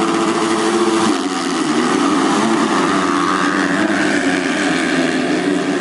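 Several dirt bikes' engines racing around the track, a dense overlapping drone of engine notes that waver up and down.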